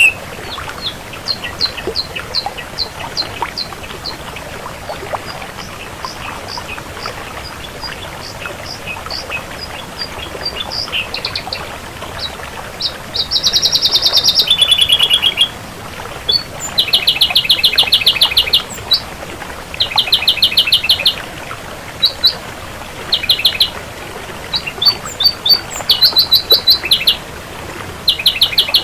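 Ashy drongo singing: a run of short, high, separate notes, then from about halfway louder bursts of fast repeated notes and trills with short pauses between them.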